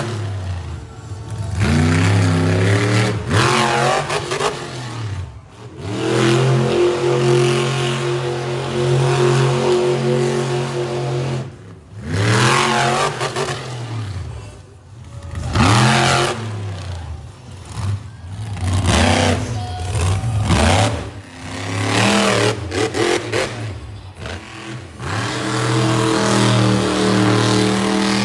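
Monster truck engines revving hard, the pitch sweeping up and falling back in repeated surges, with several sudden breaks where the sound cuts from one run to the next.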